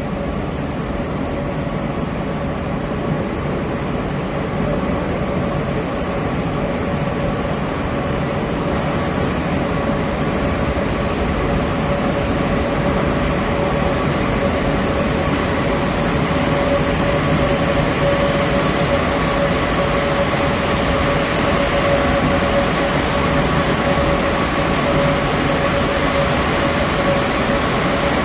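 Moskva-2020 metro train running: a steady rumble with a constant whine in it, slowly growing louder over the whole stretch.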